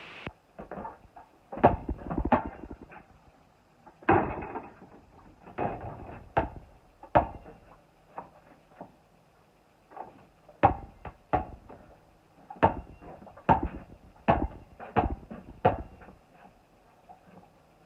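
Basketball bouncing hard on the court: a series of sharp thuds at uneven intervals, some in quick pairs, others a second or more apart.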